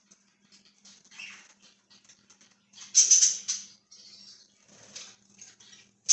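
Pet budgerigars chirping and chattering in short, scratchy bursts, the loudest a little over half a second long about three seconds in.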